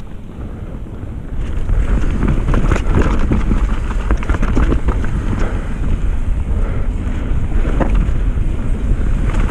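Wind rushing over the camera microphone as a mountain bike descends at speed, building up over the first two seconds, with the bike rattling and knocking over the rough trail.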